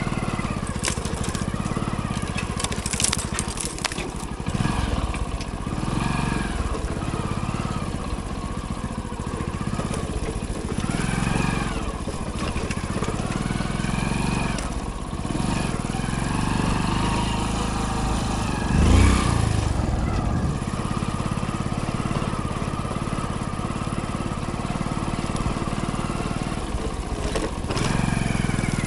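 Hero Splendor motorcycle's small single-cylinder four-stroke engine running under way, its revs rising and falling with the throttle. Rattling clicks come a few seconds in, and a louder knock about 19 seconds in, from the bike jolting over the rough trail.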